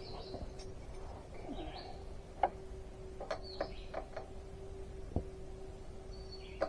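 Birds chirping in the background, over a steady hum, with a few short clicks about two to five seconds in.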